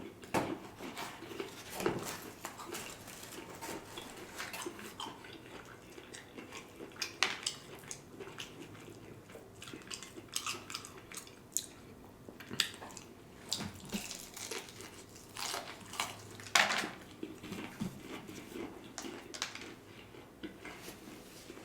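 Close-up eating sounds of fried chicken: irregular wet chewing and biting with sharp little clicks and smacks, and now and then a clink or rustle of the food container.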